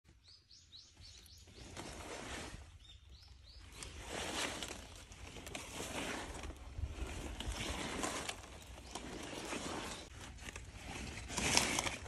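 A small bird chirps two quick runs of short rising notes in the first few seconds, over outdoor noise that swells and fades and is loudest just before the end.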